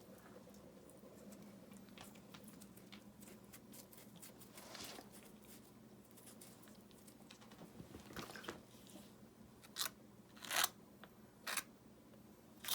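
Wet mortar being worked and river rocks bedded in it: soft crunching and scraping, then several short, sharper scrapes and clicks near the end, one of them the loudest.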